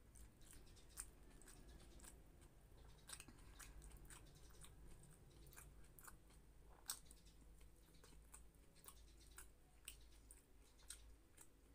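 Faint close-up chewing of soft fish, with scattered soft mouth clicks and lip smacks, the sharpest about seven seconds in.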